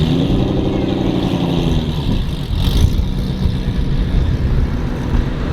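Car engine running close by, its pitch easing down over the first couple of seconds and then holding steady.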